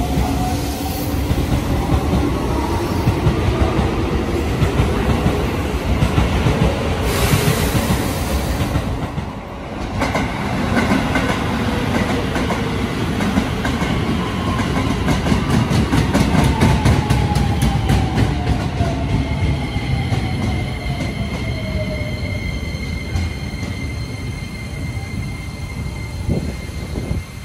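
Keisei Line electric commuter trains at a platform. Over the steady rumble of the cars, the motor whine shifts in pitch. After a break, a second train rolls in with its wheels clicking over the rail joints. Its motor whine then falls in pitch as it slows, and a steady high squeal sounds in the last part.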